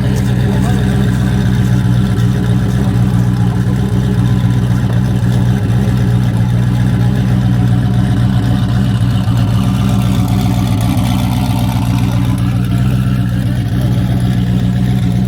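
A car engine running steadily at idle, loud and even throughout.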